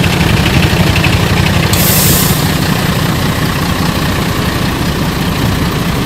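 Heavy truck engine running steadily, with a short burst of hiss about two seconds in.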